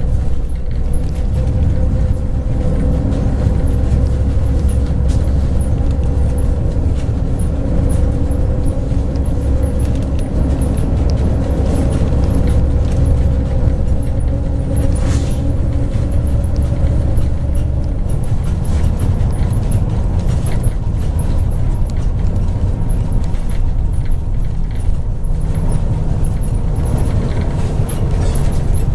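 MAZ 103 bus heard from inside the passenger cabin while driving: a steady low engine and road drone with a faint whine on top.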